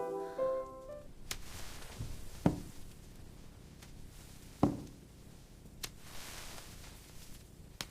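Soft piano music stops in the first second, then two dull thumps about two seconds apart, with a few sharp clicks and a faint hiss between them.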